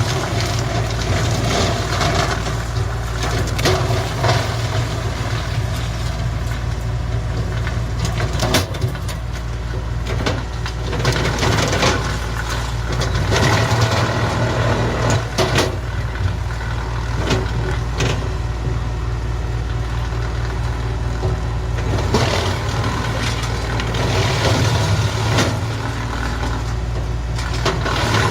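Tractor running a PTO-driven hydraulic-feed wood chipper, with a steady low engine-and-rotor hum and repeated sharp cracks and knocks as branches are fed in and chipped.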